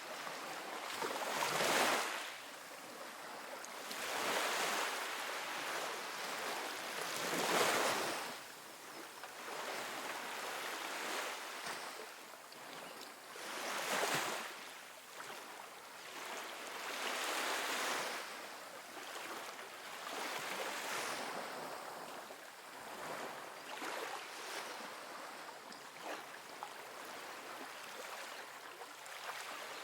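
Soft ocean waves splashing against a sandy beach, the surf noise swelling and fading as a wave breaks every few seconds.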